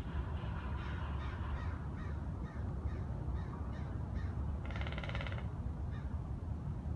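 A bird gives one harsh, rasping call lasting under a second about five seconds in, among scattered short, softer chirps. A steady low rumble runs underneath.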